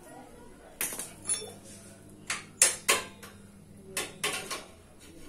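Metal tools and parts clinking and knocking against each other: about seven sharp metallic strikes, each with a brief ring, in small clusters.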